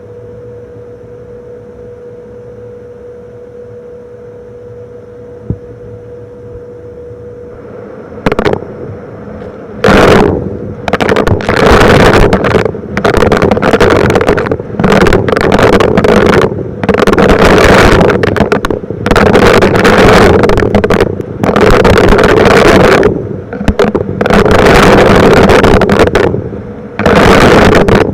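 Vacuum cleaner running with a steady hum, then from about eight seconds in, repeated very loud surges of rushing noise, each a second or two long with short breaks between, as rocks are sucked up in back-and-forth passes.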